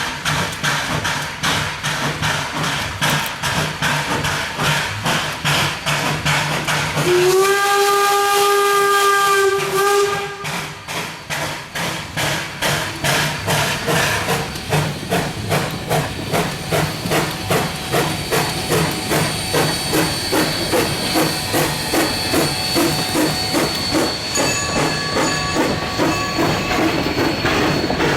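K 88, an 1870s Rogers-built steam locomotive, working with a steady chuffing exhaust beat. Its whistle sounds one long blast about seven seconds in, lasting about three seconds and louder than anything else. In the second half the exhaust beats come evenly, about two a second.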